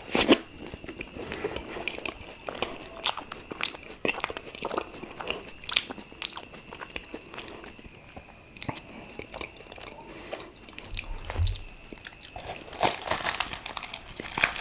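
Close-miked eating sounds: a person biting and chewing luchi (deep-fried puffed bread) with curry, a string of wet mouth clicks and chews. A sharp bite comes right at the start, and the sounds come thicker near the end.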